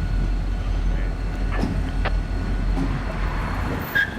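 Diesel locomotive consist rumbling steadily as the train rolls slowly, with a few sharp clicks from the wheels, and a brief high-pitched squeal near the end.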